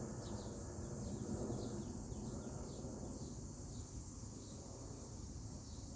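Outdoor insect chorus buzzing steadily at a high pitch, with small birds giving short, repeated chirps over it and a low rumble of wind or handling underneath.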